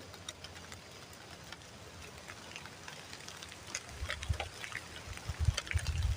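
Scattered raindrops ticking irregularly, with a few low, dull thumps in the second half.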